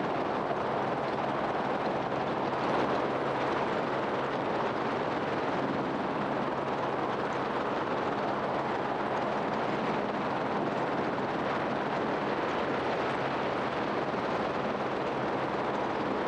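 A vehicle running with a steady rushing noise and a low, even hum beneath it.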